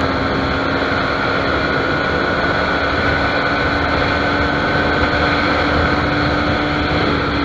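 Motorcycle engine running at a steady speed under a constant rush of wind noise, its drone holding one even pitch.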